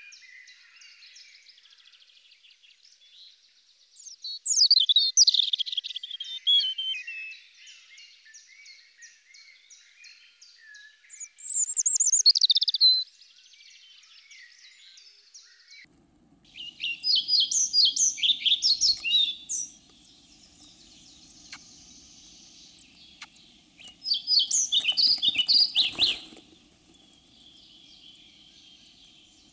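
European robin singing high, quick, tumbling phrases with quiet gaps between them. About 16 s in, the song changes to a European pied flycatcher singing short, bright, repeated phrases over a low steady hum. A single sharp knock comes near the end.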